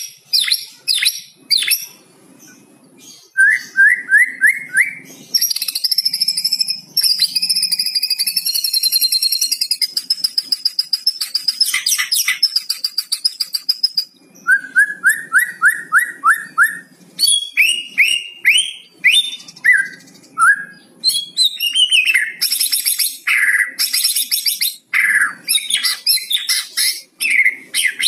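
White-rumped shama singing. Its varied whistled phrases include runs of five or six quick rising notes and a long, fast rattling trill (the "kretekan") from about five to fourteen seconds in.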